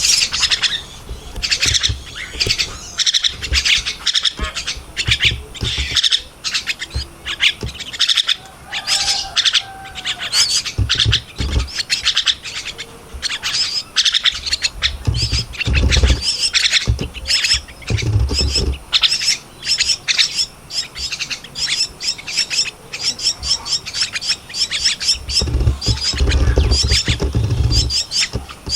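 Javan myna chicks calling with rapid, repeated harsh chirps, the begging calls of nestlings at feeding time. A few low thumps sound now and then.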